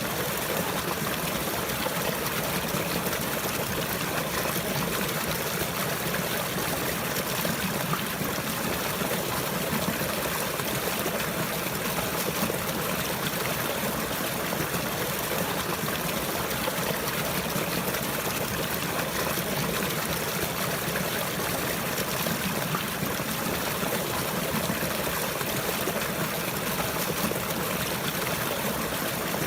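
Running water trickling in a steady, unbroken stream.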